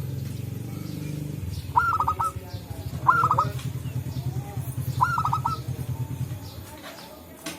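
Zebra doves (perkutut) cooing: three bursts of three or four quick, clipped notes. A low pulsing hum runs underneath and fades out near the end.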